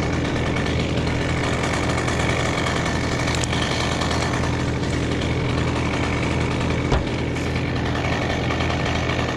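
An engine running steadily at a constant speed, with a single thump about seven seconds in.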